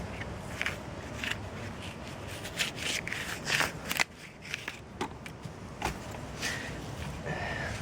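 Willow bark being peeled by hand from willow sticks: a run of irregular short tearing rasps and crackles.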